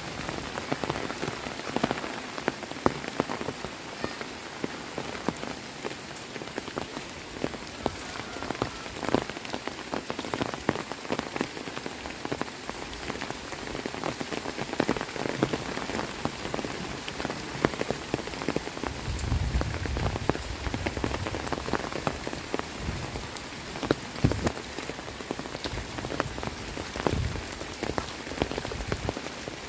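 Heavy rain falling steadily, a dense patter with many sharp individual drop impacts. A brief low rumble comes about two-thirds of the way in.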